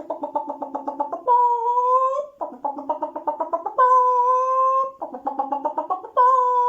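Domestic hen cackling: runs of rapid clucks, about ten a second, each ending in a long drawn-out call, three times over.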